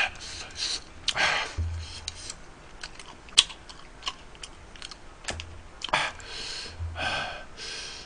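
Close-up eating sounds of a person chewing spicy tteokbokki rice cakes: scattered sharp wet mouth clicks, with a few breathy puffs about a second in and again near the end.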